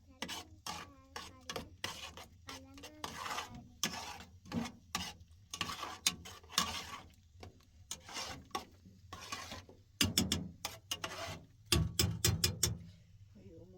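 Irregular clacking and knocking of cookware and utensils being handled, with quick runs of knocks about ten seconds in and again near twelve seconds.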